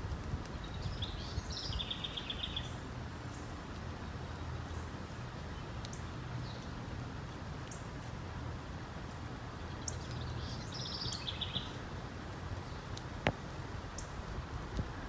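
Outdoor ambience: a songbird sings a short phrase twice, near the start and again about ten seconds later, over a steady low rumble. A single sharp click comes near the end.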